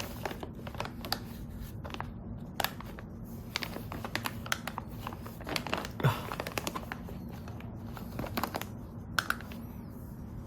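Scattered light clicks, taps and crinkles of hands handling plastic while a beetle larva is weighed, over a steady low hum. The loudest tap comes about six seconds in.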